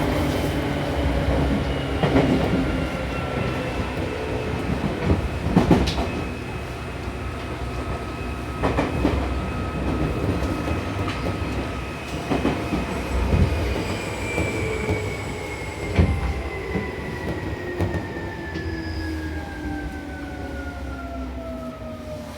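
Interior running sound of a Seibu New 2000 series electric train slowing down: the traction motor whine falls steadily in pitch as the train brakes, with wheels knocking over rail joints and a gradually lowering rumble.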